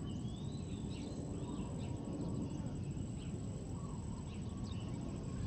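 Birds chirping in short, scattered calls over a steady low rumble, with a thin high pulsing buzz like an insect trill throughout.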